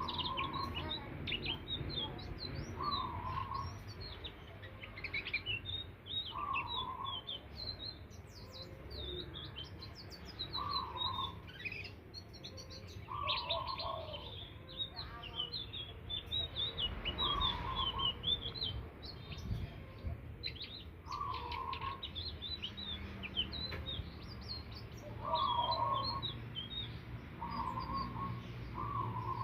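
Indigo flycatcher (sikatan ninon) song: a continuous run of rapid, high twittering chirps. A lower, shorter note repeats every two to three seconds over a steady low hum.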